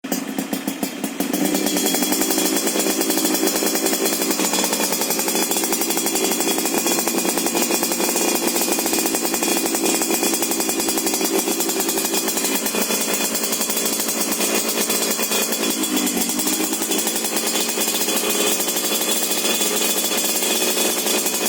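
Yamaha RX King's 135 cc two-stroke single running steadily at idle through an aftermarket 'telo' racing exhaust. It is a little quieter for the first second, with a brief dip and rise in pitch about sixteen seconds in.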